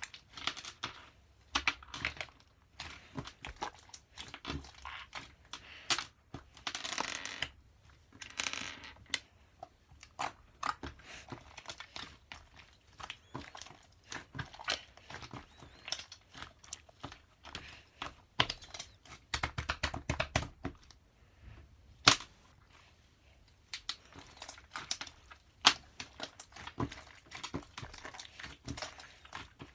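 Irregular handling noises: many scattered sharp clicks and taps, with two longer rustling, crinkling stretches about seven and eight and a half seconds in.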